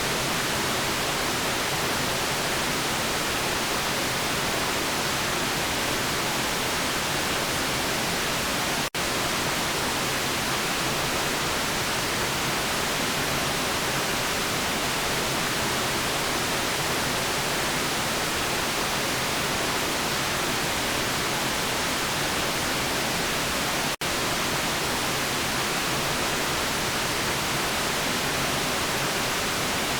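Steady white noise: an even, continuous hiss spread across the whole range, with two momentary dropouts, about 9 seconds and 24 seconds in.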